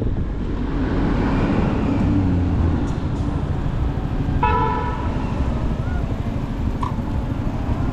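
Motorcycle riding in city traffic: steady engine and road noise, with one short vehicle horn honk about halfway through.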